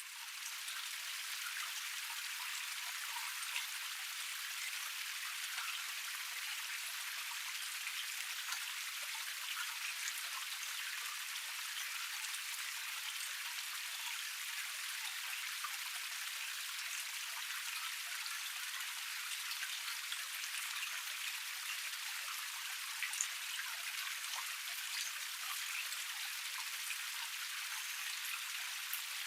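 Water of a small forest cascade splashing steadily over rocks: an even rush with many small droplet splashes, thin and with no low rumble.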